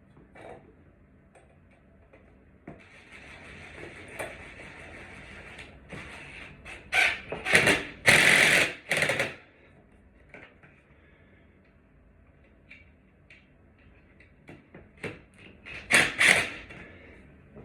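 Hardware being handled: scattered clicks and rattles, with two loud spells of scraping and clattering, the longer in the middle and a short one near the end.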